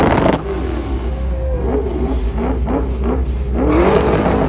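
A car engine revs in a series of quick blips, its pitch rising and falling several times, with a longer rising rev near the end. A loud noisy burst comes right at the start, and a steady low rumble runs underneath.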